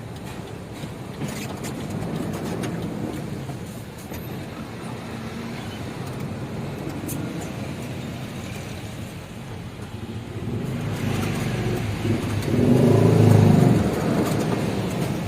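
Truck's diesel engine running on homemade biodiesel made from used cooking oil; it runs steadily, then revs louder from about ten seconds in, loudest around thirteen seconds, before easing off.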